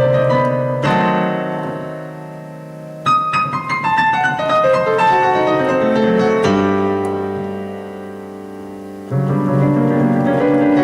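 Background piano music: slow held chords, with a falling run of single notes in the middle.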